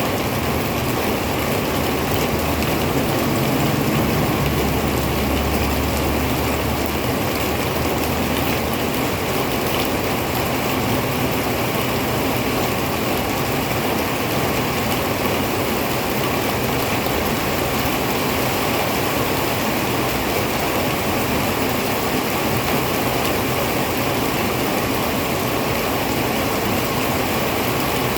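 Heavy rain falling steadily, an even hiss of downpour. A low rumble sits under it for the first several seconds.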